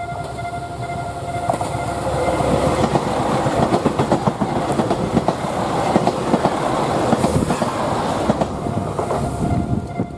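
2000 series diesel train running past at speed, its wheels clicking rapidly over rail joints, growing louder from about two seconds in. Early on a steady tone is heard, fading out in the first second or two.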